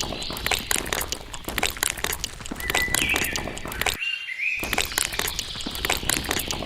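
Rapid, irregular clicking and scraping, with a few short bird chirps a few seconds in. The sound briefly drops out about four seconds in.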